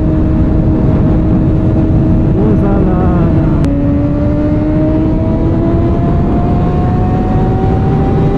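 Motorcycle engine running under riding wind noise: a steady engine note, then a sharp drop in pitch with a click about three and a half seconds in as the rider shifts up a gear, after which the note climbs slowly and steadily as the bike accelerates.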